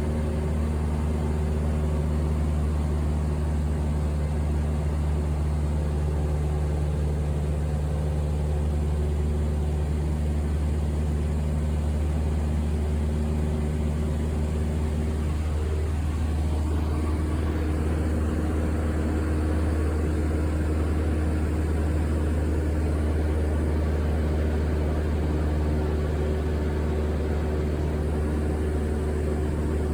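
Steady drone of an airliner cabin in flight: low engine and air noise with a few held hum tones, which shift slightly about halfway through.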